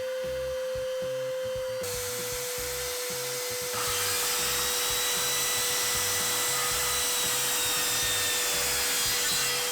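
Budget circular saw running with a steady whine, then cutting through 18 mm MDF. The cutting noise comes in about two seconds in, grows louder about four seconds in, and holds steady.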